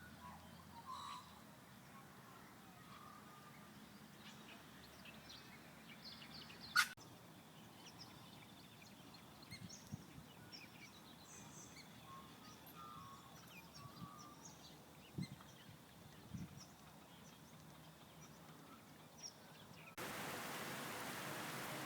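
Faint outdoor ambience with scattered short bird chirps and one sharp click about seven seconds in. A steady hiss sets in abruptly near the end.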